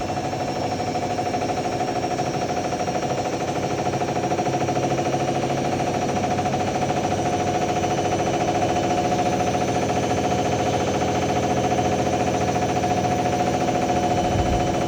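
Ariston AML125 washer-dryer running hard: a steady whine with a fast, continuous rattling vibration, growing slightly louder.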